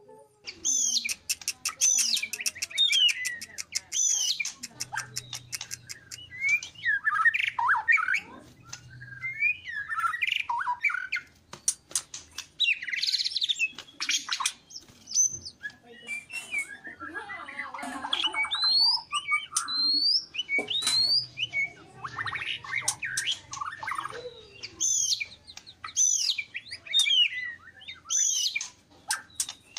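White-rumped shama (murai batu) singing a long, varied song of sweeping whistles, rapid trills and harsh squawking notes, with brief pauses between phrases.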